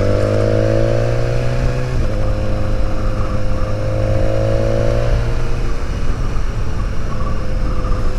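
BMW S1000XR's inline-four engine accelerating through the gears: the pitch rises, drops at an upshift about two seconds in, climbs again, and settles after another change a little past the middle, over a steady rush of wind noise.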